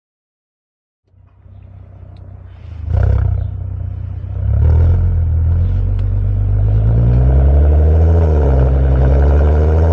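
Volkswagen Golf R32's 3.2-litre VR6 running through a resonator-delete exhaust with a Magnaflow straight-through muffler, coming in about a second in and then holding a loud, deep, steady drone with a slight pitch dip and rise late on. Its exhaust warble is more pronounced.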